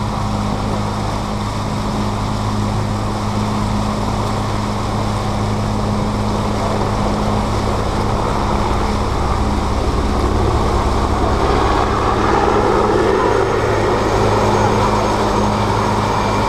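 Motorboat engine running steadily with a low, even hum, and a rushing noise that builds about halfway through.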